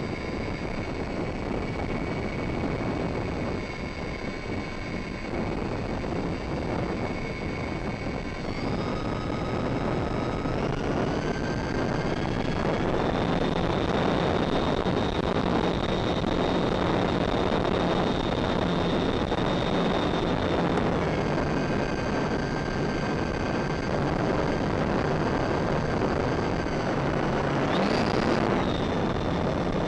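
Durafly Tundra VTOL model aircraft's electric motor and propeller whine over a steady rush of wind noise. The whine steps up in pitch and loudness about a third of the way in, holds, drops back about two-thirds of the way through, then surges briefly near the end.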